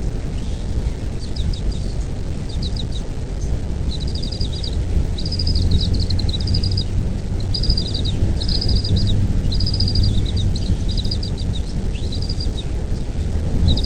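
Bald eagle chittering: short runs of rapid, high piping notes, repeated again and again. Under them runs a constant, louder low rumble.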